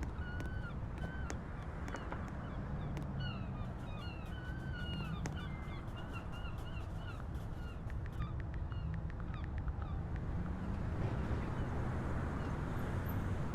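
Subway train running with a steady low rumble and scattered clicks. In the first half there is a run of short, high-pitched squeaks.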